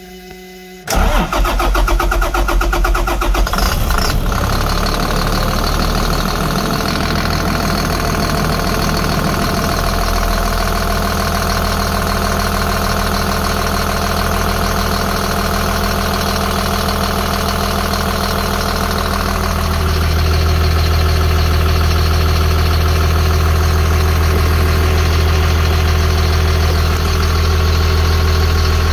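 2005 Caterpillar C7 inline-six turbo diesel being started: the starter cranks it about a second in and it catches within a few seconds, then settles into a steady idle. About 20 s in the running note steps up and gets a little louder.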